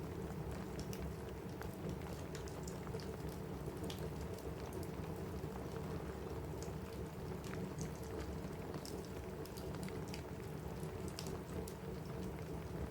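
Steady rain on a cabin roof mixed with a crackling wood fire: a constant low hiss with scattered sharp ticks and pops.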